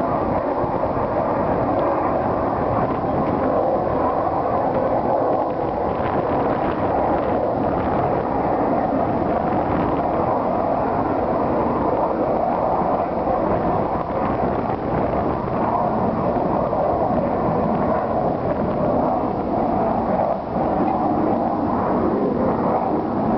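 Aircraft engine noise: a loud, steady rushing roar that holds nearly constant throughout.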